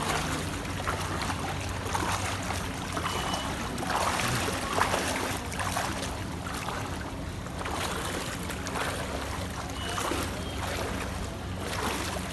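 Floodwater swishing and splashing in surges about every two seconds as something moves through it, over a steady low engine hum.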